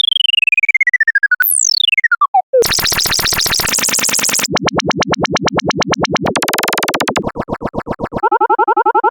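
A run of synthesized electronic sound effects. First come two falling pitch glides, the second steeper. Then buzzing, pulsing tones with a quick rising-and-falling sweep in the middle, and near the end a set of stepped tones.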